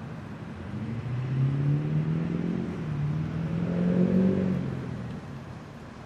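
A car engine accelerating, its pitch rising slowly as it gets louder, then fading out about five seconds in.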